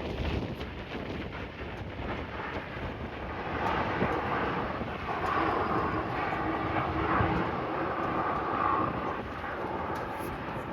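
Jet airliner passing, its engine noise with a steady tone swelling about three to four seconds in and easing off near the end. Gusty wind buffets the microphone throughout.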